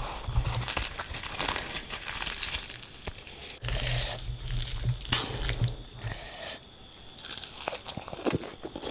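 Close-miked eating sounds: puffed fried luchi being torn and bitten, with irregular crackling and crunching.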